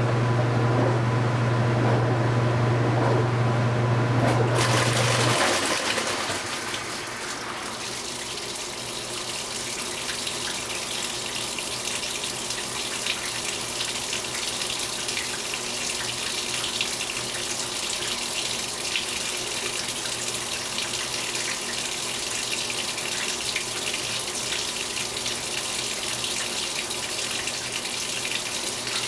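2015 Speed Queen 8 Series top-load washing machine: a steady motor hum cuts off about five seconds in, as water starts rushing into the tub and keeps filling steadily.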